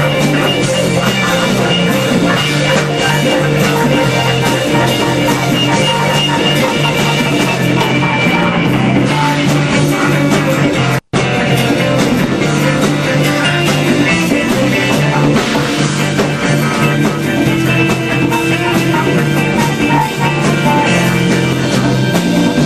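Live band playing an instrumental jam, loud and dense throughout. The sound cuts out for an instant about halfway through.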